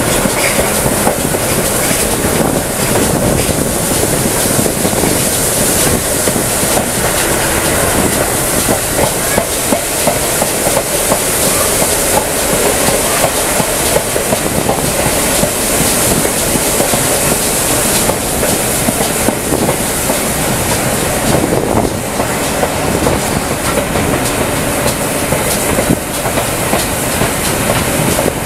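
A passenger train running along the track, heard from an open carriage window: a loud, steady rumble of wheels on rails with a clatter of small knocks over the rail joints.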